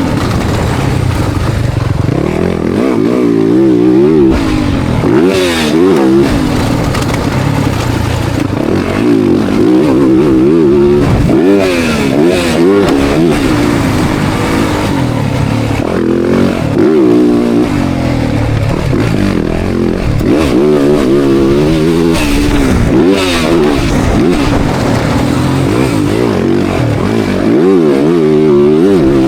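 Motocross bike engine revving hard and backing off over and over, its pitch rising and falling every second or two as the rider accelerates and shuts off, heard from a camera on the bike or rider.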